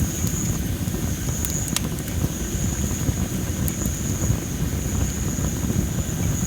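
Well-dried masaki (Japanese spindle) firewood burning, with a few sharp crackles over a steady low rumble. A steady high-pitched hum runs through it.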